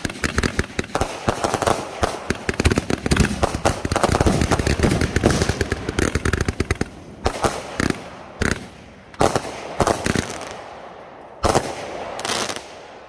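Multi-shot consumer firework cake firing: a rapid run of launches and crackling breaks for about seven seconds, then slower single shots and a last short burst before it stops.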